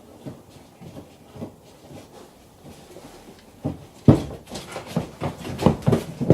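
Carpet trim panel being worked loose and lifted out of a car's rear compartment: handling noise of light, irregular knocks and rustles. They grow much louder and busier from about four seconds in.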